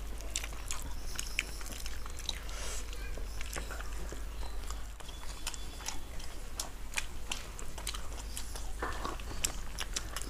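Close-up sounds of two people eating: wet chewing, biting and crisp crunches, with many scattered mouth clicks.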